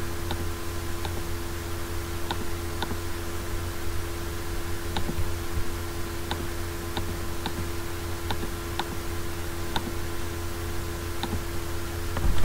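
Computer mouse clicks, single and irregular, roughly one a second, over a steady electrical hum.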